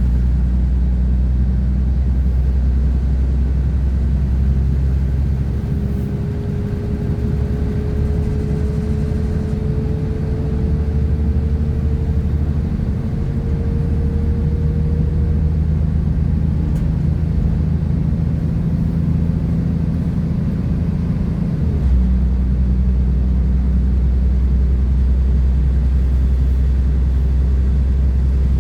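Class 172 diesel multiple unit heard from on board: its underfloor diesel engine runs with a steady low rumble over the running noise of the train. The rumble eases off about six seconds in and picks up strongly again about twenty-two seconds in. A faint whine rises slowly in pitch for about ten seconds in between.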